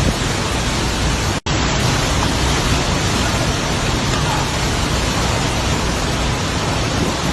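Steady, dense noise of heavy tropical-storm rain and wind, with a split-second dropout to silence about a second and a half in.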